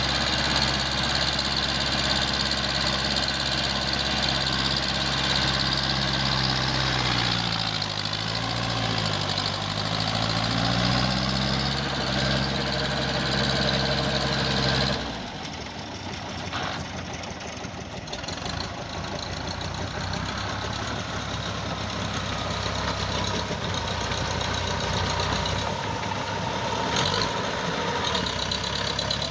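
TAFE 5900 DI tractor's diesel engine running. Its pitch sags from about 7 s and recovers by about 11 s. At about 15 s the sound turns suddenly quieter and rougher.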